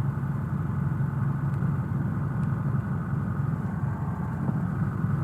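Cessna 172's piston engine running steadily at taxi power, heard from inside the cockpit as an even drone. The RPM is really high for taxiing.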